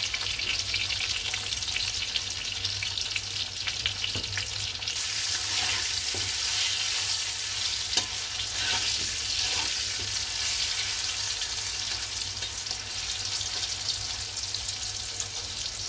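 Potato chunks sizzling as they fry in hot mustard oil in a kadai, with a metal spatula scraping and tapping the pan now and then as they are turned. The sizzle grows brighter about five seconds in.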